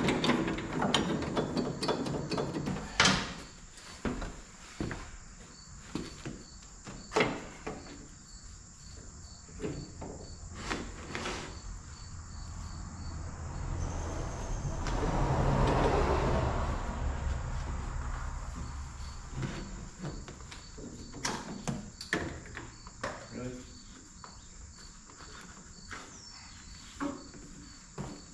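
Crickets chirping in a steady, even rhythm, with scattered sharp knocks and clicks and a low rumble that swells and fades about halfway through.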